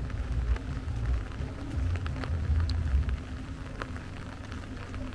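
Rain falling, with scattered close drops ticking sharply over a steady rain hiss. Under it are an uneven low rumble that eases about three seconds in and a steady low hum.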